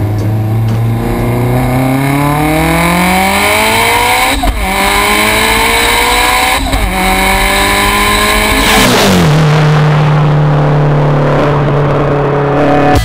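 Tuned 775 PS Subaru Impreza WRX STI's turbocharged flat-four accelerating hard, its note climbing through the gears with upshifts about four and a half and six and a half seconds in. Near nine seconds the revs drop away and the engine holds a steady lower note.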